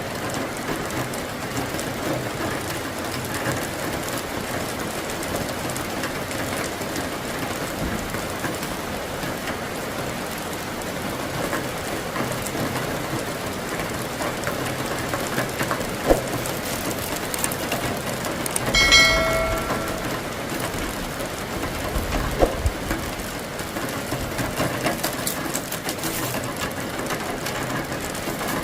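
Steady rain falling in a thunderstorm, an even hiss throughout. About two-thirds of the way through, a brief pitched tone sounds, and a couple of sharp clicks stand out.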